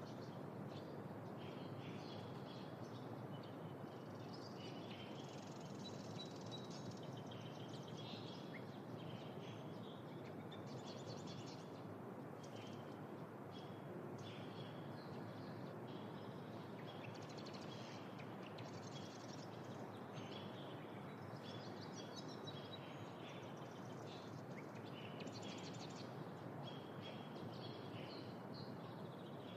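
Wetland chorus on a spring evening: many short, high calls and trills from birds, one after another, over a steady low background noise.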